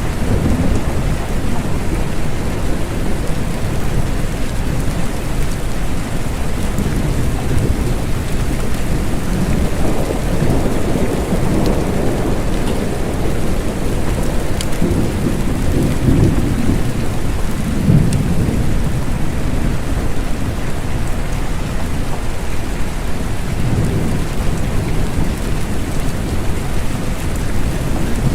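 Steady rain falling, with low thunder rumbling and swelling several times.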